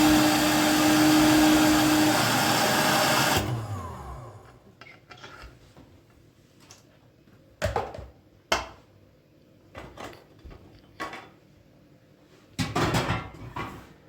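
Electric kitchen appliance motor running with a steady whir and hum, switched off about three seconds in and winding down in pitch. It is followed by a few separate sharp clicks and knocks, and a short clatter near the end.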